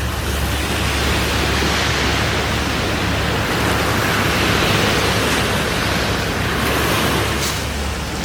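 Bacon sizzling in a frying pan over a campfire: a steady hiss that swells in at the start, with a single pop near the end.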